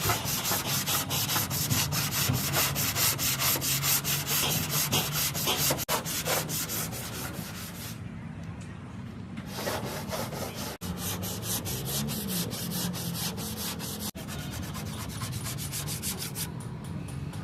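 Fast, rhythmic rubbing strokes, several a second, as of sanding by hand, pausing for about a second and a half around eight seconds in.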